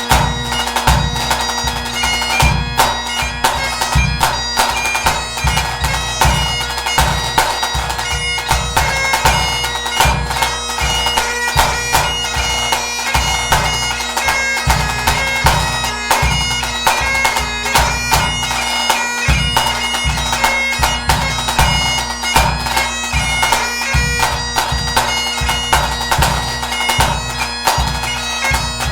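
Highland bagpipe playing a tune over its steady drones, with a bass drum beating a rhythm underneath.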